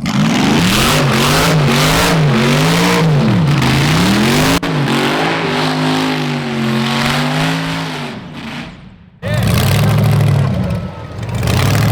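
Supercharged LS V8 of an R34 Skyline burnout car revving hard, its pitch swinging up and down, then holding steadier before it fades out about eight seconds in, over a broad noisy wash of spinning tyres. The engine comes back in suddenly about a second later.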